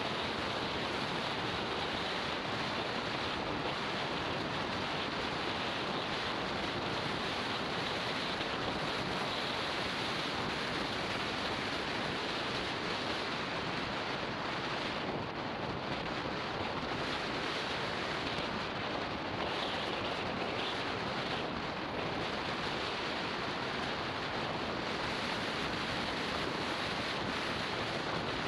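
Steady wind rush over the microphone of a camera riding on a moving motorbike, an even, unbroken hiss with no distinct engine note standing out.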